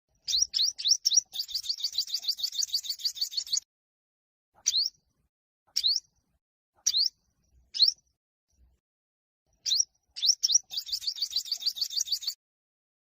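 Yellow-bellied sunbird singing in high, sharp up-slurred notes: a few quick rising notes run into a fast trill of about ten notes a second lasting about two seconds. Single rising chirps follow, then the quick notes and the trill come again near the end.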